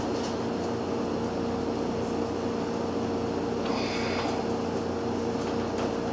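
A machine runs steadily with an even, droning hum, with a brief scratchy rustle about four seconds in.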